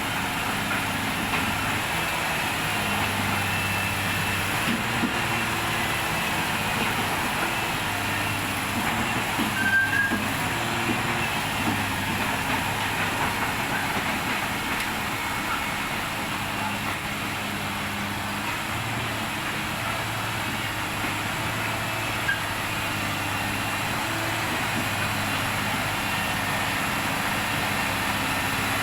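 A large engine running steadily at a constant speed, with a few light clanks.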